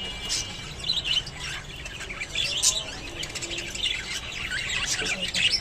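Budgerigars chirping and chattering: a busy run of short, overlapping chirps.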